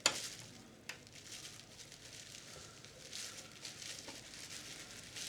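A sharp click, a second smaller click about a second later, then faint scraping and rustling: a screwdriver working a screw out of a VCR's tape-mechanism chassis.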